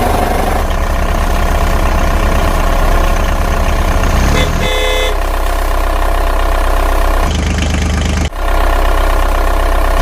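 Vehicle engine running steadily with a fast low rumble, and a short horn toot about five seconds in.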